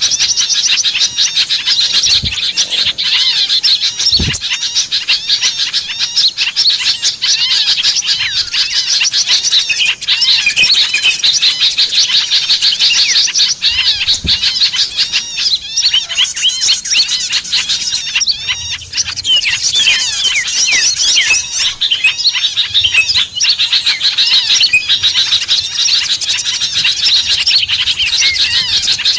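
Many small birds chirping at once, a loud, dense, unbroken stream of rapid high chirps: a bird-lure (pikat) recording played to draw small birds in.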